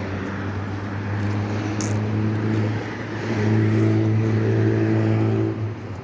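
Motor vehicle engine running with a steady low hum over road noise; it grows louder about three seconds in, holds for a couple of seconds, then drops back near the end.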